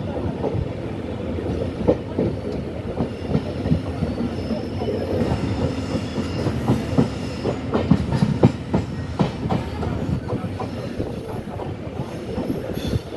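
A train running on the track, its wheels clattering over the rail joints in many sharp clacks over a steady rumble.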